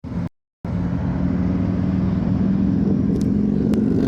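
A brief snatch of sound cut off within the first half second, then a car engine running with a steady low drone.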